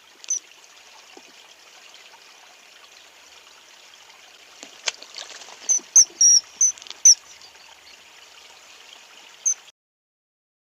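Kingfisher giving short, shrill, high-pitched calls over the steady rush of a stream: one just after the start, a quick run of about five around six seconds in, and one more near the end, after which the recording cuts off.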